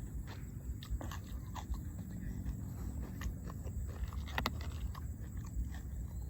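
A person chewing and biting food, with irregular crunches and wet mouth clicks; one sharper crack about four and a half seconds in.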